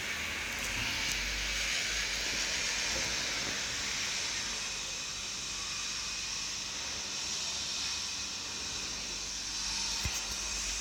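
Steady hiss, with a faint click about ten seconds in.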